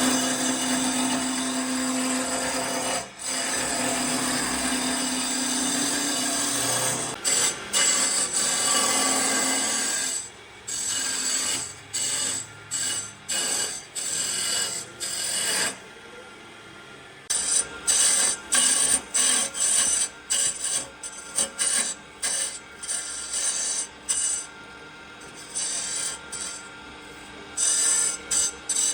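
A power tool working wood. It runs steadily with a hum for about ten seconds, then in short bursts, starting and stopping many times.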